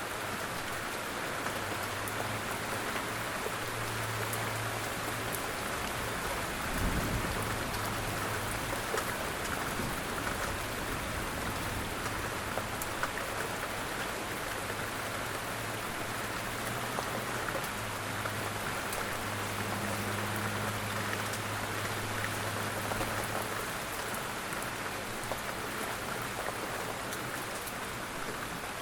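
Steady quiet rain falling, with small drop ticks scattered through it and a brief low thump about seven seconds in.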